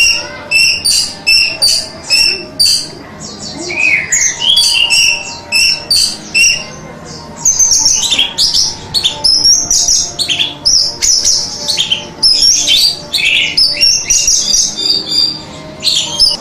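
Orange-headed thrush (anis merah) singing: short high notes repeated about twice a second, then from about halfway a faster, denser run of varied phrases.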